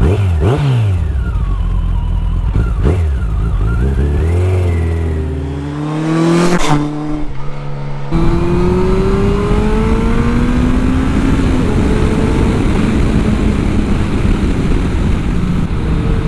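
2003 Yamaha FJR1300's inline-four engine breathing through Remus Revolution aftermarket mufflers. It is blipped twice, then the bike pulls away and accelerates with rising pitch, with gear changes about eight and twelve seconds in. It then settles to a steady cruising note with wind noise.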